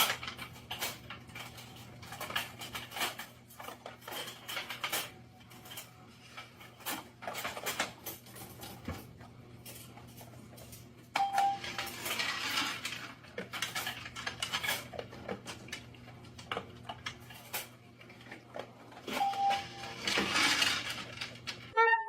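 Button-operated dog food dispenser: twice, a short beep as the button is pressed, followed by about two seconds of dry kibble rattling out into the bowl. In between, scattered clinks of the dog eating from the bowl.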